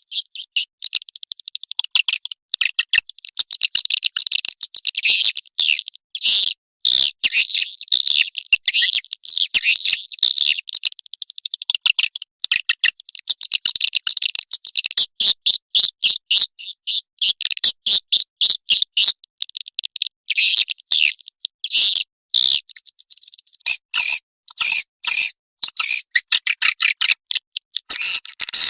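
Swiftlet calls in fast, high-pitched chattering and twittering runs of rapid clicks, broken by short gaps. This is a swiftlet lure call, the sound used to draw swiftlets to a nesting house.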